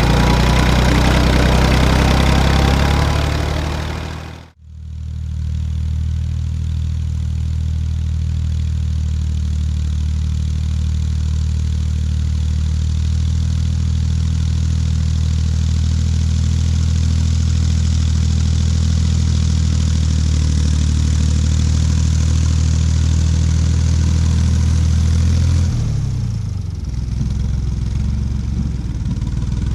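Tractor engine running steadily, as if pulling a cultivator. The sound cuts out abruptly about four seconds in and resumes with another steady engine note. The engine note drops and changes near the end.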